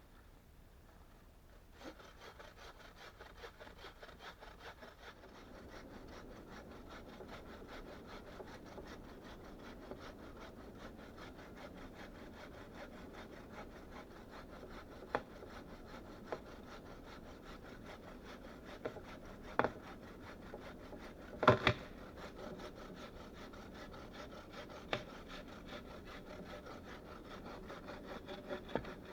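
Hand saw cutting through wood in quick, steady strokes, starting about two seconds in, with a few sharp knocks of wood on wood, the loudest a double knock about two-thirds of the way through.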